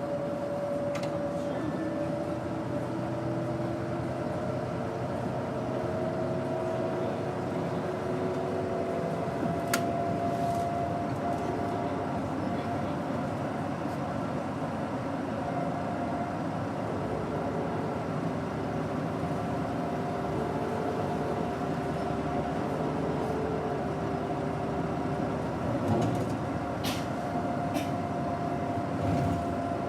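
Doosan GE12Ti natural-gas engine of a 2007 Daewoo BS110CN bus running under way, with a whining tone that rises slowly over the first ten seconds and then holds steady, and a few brief clicks and rattles.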